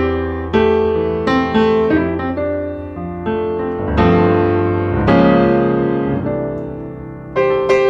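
Background piano music: chords and single notes struck one after another, each ringing and fading before the next.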